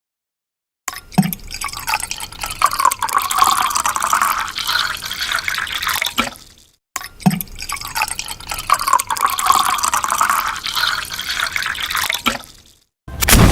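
Soda (pop) bottle: a sharp pop, then about five seconds of liquid noise, ending with a click. The same take is heard twice, a second apart.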